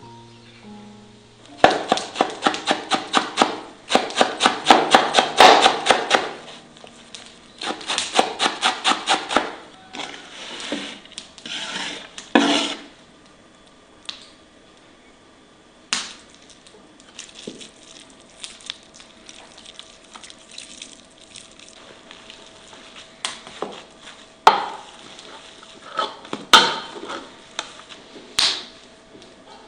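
Rapid chopping with a knife on a wooden board: three quick runs of about six strokes a second, then scattered single knocks.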